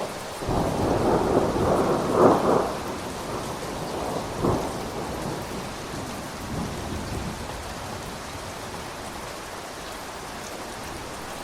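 A thunderclap over steady rain. The rumble starts suddenly about half a second in, peaks sharply around two seconds and again around four and a half seconds, and dies away into the rain hiss by about seven seconds.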